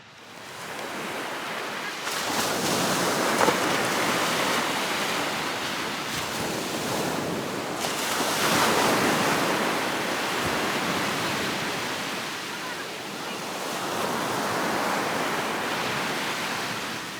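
Gulf of Mexico surf breaking on a beach, a steady rush that swells and ebbs every several seconds. A short tick sounds about three and a half seconds in.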